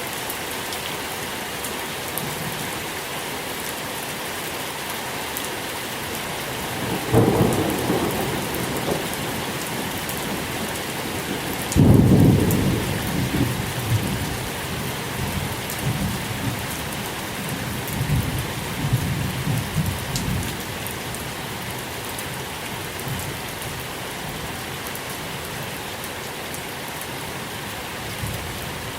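Steady rain falling, with thunder. A rumble comes about seven seconds in, then a louder clap about twelve seconds in that rolls on in low rumbles for several seconds.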